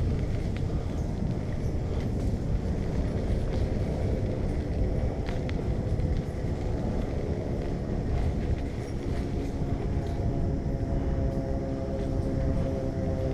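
Steady low wind rumble and riding noise from a moving bicycle, with no distinct events. From about nine seconds in, a faint steady hum joins the rumble.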